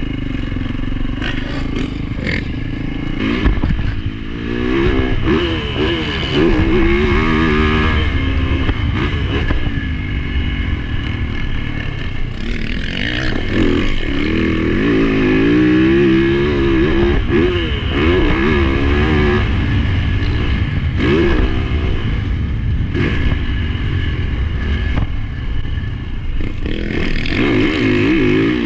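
A 450cc four-stroke motocross bike's engine revving up and falling off again and again through the gears on a practice lap, heard from an onboard GoPro.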